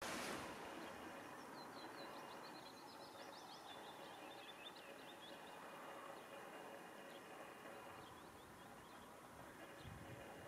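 Quiet outdoor background with a small bird singing a rapid series of short, high twittering notes from about one and a half to five and a half seconds in.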